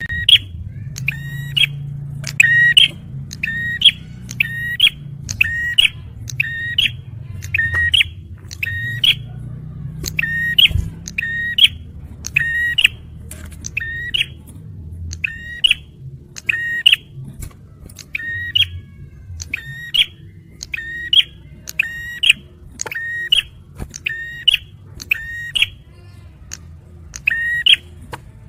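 Male prenjak merah calling over and over: a sharp, high call repeated about once a second, with a few brief pauses, over a low background hum.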